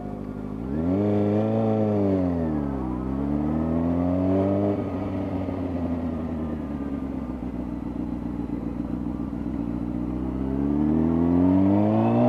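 Motorcycle engine revving up and easing off twice, then running at a steady pitch, and rising again near the end as it accelerates.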